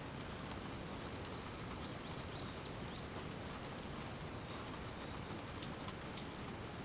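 Steady rain falling, with scattered individual drops ticking, and a few faint high chirps in the first half.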